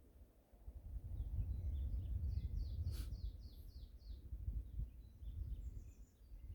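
Small birds chirping in quick runs of short, falling notes, about five in a row near the middle, over a steady low wind rumble.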